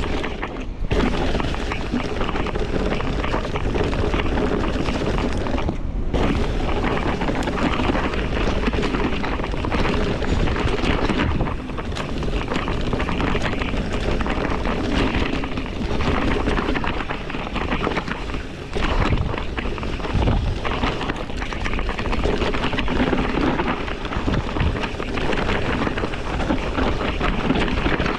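Wind buffeting the microphone and constant rattle and rumble from riding fast over rough singletrack. The noise is loud and dense, with brief dips near the start and about six seconds in.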